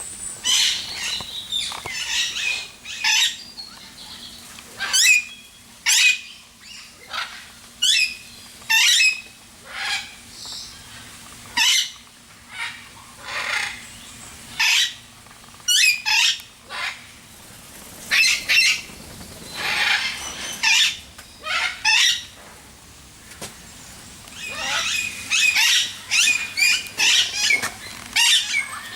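Aviary birds calling: a long run of short, harsh squawks, one every second or so, thickening into a quick cluster near the end.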